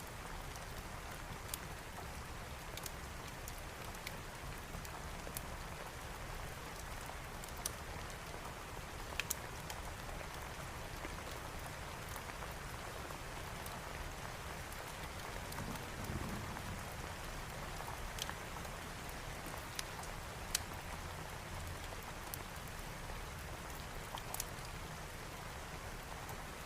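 Steady rain falling, with scattered sharp crackles and pops from a fireplace fire.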